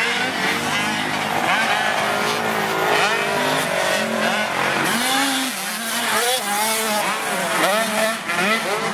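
Several 85cc two-stroke motocross bikes revving hard around the track, their engine pitches repeatedly rising and falling as riders throttle on and off through jumps and corners.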